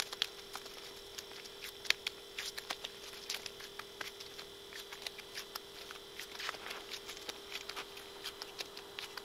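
Irregular light clicks and taps, scattered unevenly, over a steady faint hum.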